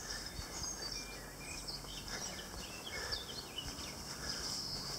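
Birds singing outdoors: many short chirps and quick whistled notes, one after another, over a steady background hiss.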